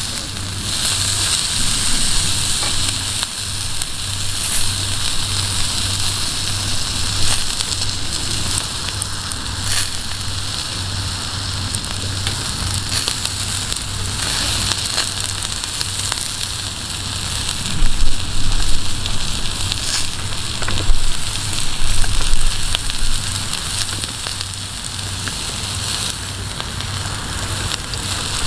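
Campfire crackling with sauced yakitori skewers sizzling over it: a steady sizzling hiss full of small pops and snaps. A few low thuds come about two-thirds of the way through.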